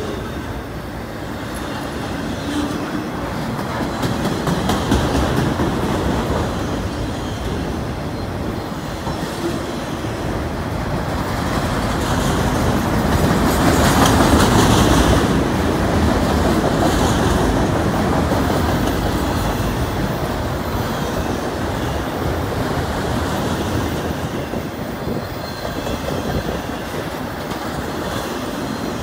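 Freight train of enclosed autorack cars rolling past, steel wheels rumbling and clicking over the rails, loudest about halfway through.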